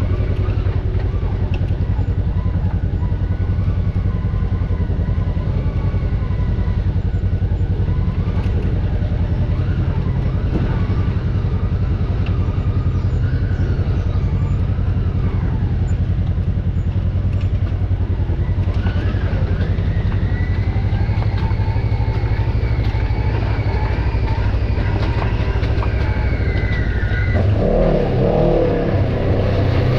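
Off-road vehicle's engine running steadily at low revs, with its note growing louder and fuller about two seconds before the end.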